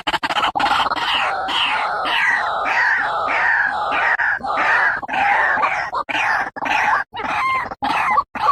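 White-breasted waterhen calling: a harsh, repeated call of about two notes a second, breaking into shorter, separate notes near the end.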